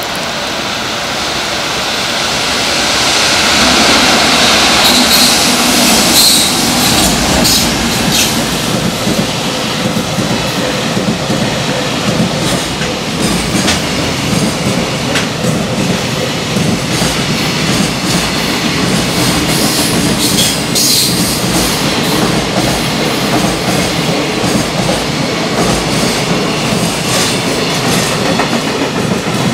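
High-speed freight train hauled by an electric locomotive passing through a station. It grows louder over the first few seconds as the locomotive arrives, then the container wagons roll past steadily with clickety-clack from the wheels.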